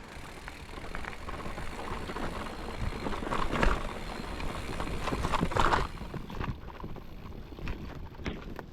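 Mountain bike riding over a dirt forest trail: tyres rolling on the ground with scattered clicks and rattles from the bike, and two louder rushes of noise around the middle.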